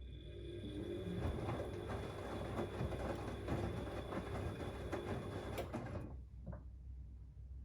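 Siemens Extraklasse XLS 140 A front-loading washing machine working early in a boil-wash cycle: a run of steady mechanical and water noise with a faint high whine, which stops suddenly about six seconds in and is followed by a brief knock.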